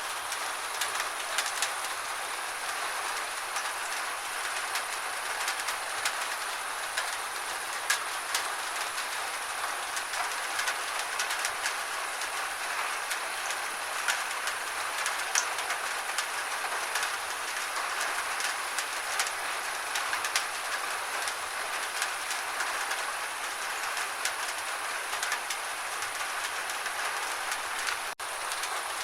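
Steady gentle rain: an even hiss of rainfall with many small drops ticking sharply on a surface. It cuts out for an instant near the end.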